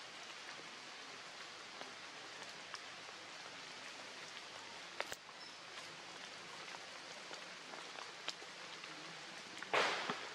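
Steady hiss of rain falling on leaves and wet forest floor, with scattered drips and one sharp click about halfway. A brief, louder rustle comes near the end.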